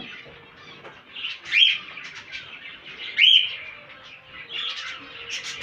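Many small cage birds chirping continuously, with two louder, sharp calls standing out, about two seconds apart.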